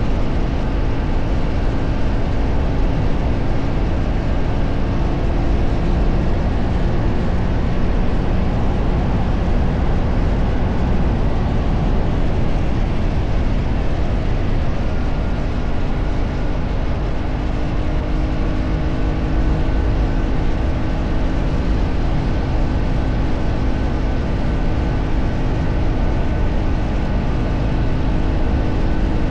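A vehicle travelling on the road: steady deep wind and road rumble, with a faint engine hum held at cruising speed that shifts slightly in pitch now and then.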